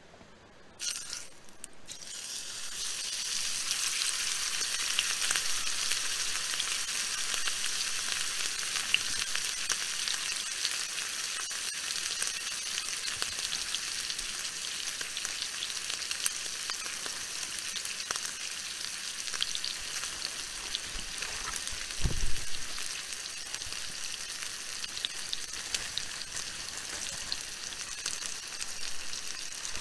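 Food sizzling and frying in a hot pan: the sizzle starts about a second in, swells over the next couple of seconds, then holds steady, with one dull knock about twenty-two seconds in.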